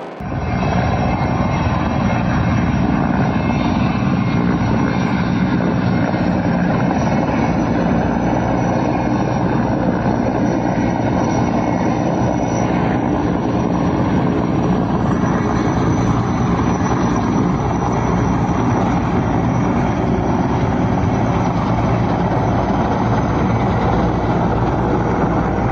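Helicopter running steadily at close range, a dense, unbroken rotor and turbine noise.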